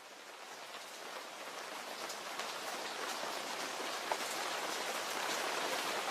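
Steady rain with single drops hitting close by, fading in and growing steadily louder over the first few seconds.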